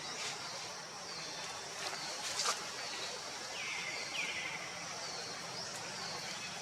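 Outdoor ambience with a steady high-pitched drone. Over it come a few short animal calls, each falling in pitch, heard about four seconds in and again near the end.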